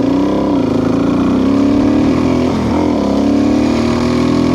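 Motorcycle engine running under way, its revs dipping briefly near the start and again about midway, with wind rushing past.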